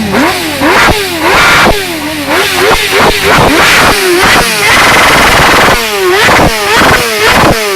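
Motorcycle engine revved hard over and over in quick blips, the pitch rising and falling about twice a second. Sharp cracks from the exhaust come between the revs, and one longer held rev falls about halfway through.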